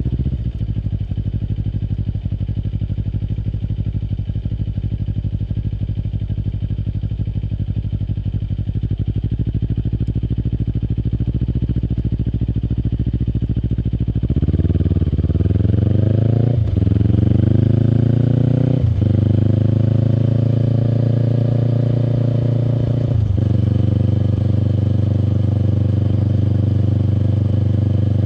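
Kawasaki Eliminator SE's 400 cc parallel-twin through a BEAMS full aftermarket exhaust, running steadily at low revs, then accelerating about halfway through. It revs up through the gears with three upshifts, each a rising note cut by a quick drop, and settles into a steady cruise near the end.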